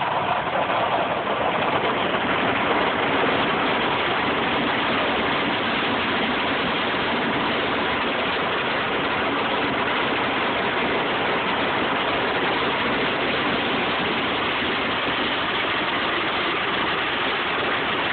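Automatic car wash running over the car, heard from inside the cabin: a steady, loud rush of water and machinery that holds level throughout.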